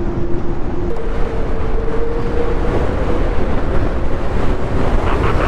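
Motorcycle on the move, heard from the rider's microphone: heavy wind rumble over a steady engine tone that steps up in pitch about a second in and then climbs slightly.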